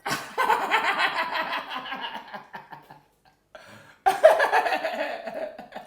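A person laughing in two long bouts, the first lasting about three seconds and the second starting about four seconds in.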